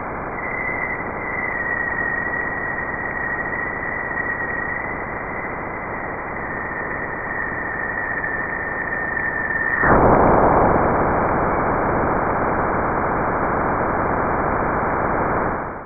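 Sonified plasma-wave data from NASA's Juno spacecraft crossing Jupiter's bow shock. A steady hiss carries a thin high tone that drifts slightly lower. About ten seconds in, the tone drops out and the hiss turns suddenly louder and rougher: the moment supersonic solar wind is slowed at the edge of Jupiter's magnetosphere.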